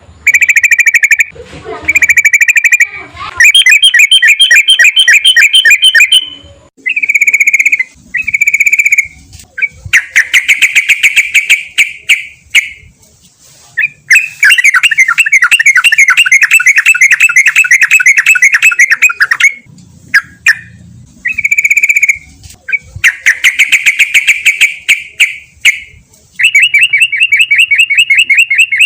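Sooty-headed bulbul singing loudly: short whistled phrases alternating with long, rapid repeated trills of several seconds each.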